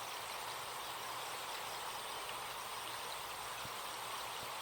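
Recorded forest ambience: a stream running steadily, with insects keeping up a steady high-pitched buzz.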